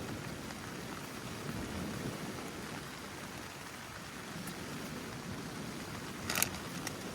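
Steady rain falling, with a short sharp clatter about six seconds in.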